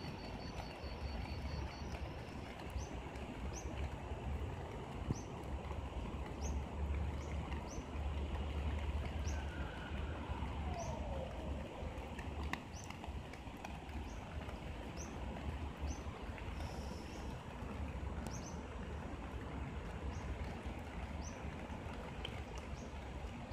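Outdoor ambience: a small bird repeats a short high chirp about once a second, with a fast high trill in the first couple of seconds. Underneath run a steady low rumble and a soft even hiss.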